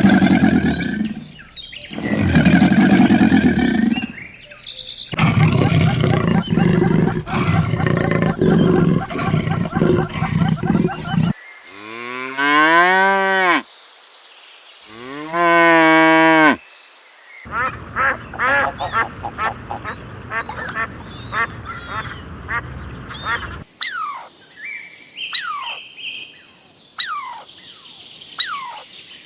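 A run of different farm animal calls, one short clip after another: quacking and honking calls, two long pitched calls that rise and then fall, a stretch of rapid repeated calls, and sharp falling chirps near the end.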